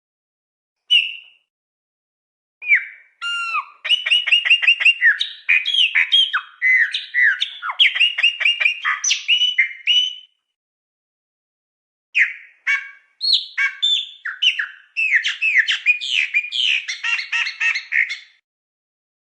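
A songbird singing two long, varied phrases of clear notes and rapid trills, with a pause of about two seconds between them and silence behind the song.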